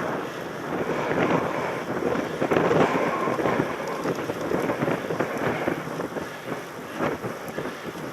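Mountain bike ridden over rough ground, heard from a helmet-mounted camera: steady tyre and wind noise on the microphone, with a dense, irregular rattle of small knocks and jolts.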